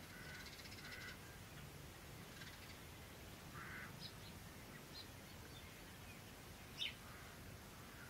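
Faint wild bird calls: a few harsher, lower calls in the first second and again about three and a half seconds in, brief high chirps, and one sharp, falling high chirp, the loudest, near the end.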